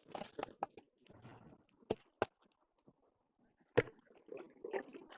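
Scattered small clicks and knocks with short scraping rustles between them, as gravel and rocks are handled while sampling for gold; the sharpest clicks come about two seconds in and again near four seconds.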